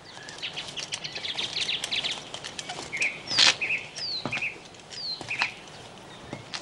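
Small birds chirping and twittering, a string of short high calls with a couple of quick falling whistles.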